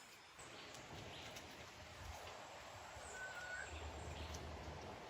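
Faint outdoor ambience, a steady soft hiss, with a single short bird chirp about three seconds in.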